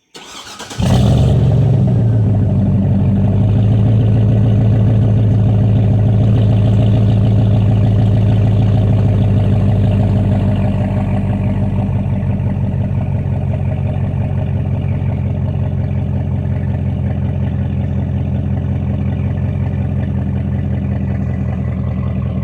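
Chevrolet Suburban's 6.0 L LY6 V8 cranking and firing up through a 4-inch Dynomax exhaust, then idling with a deep exhaust note. The idle drops a little about ten seconds in.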